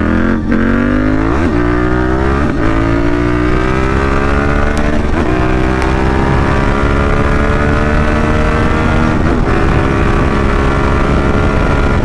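KTM 790 Duke's parallel-twin engine accelerating hard up through the gears: the revs climb and drop sharply at each upshift, five shifts, the first three quick and close together and the later ones spaced further apart as the gears get longer.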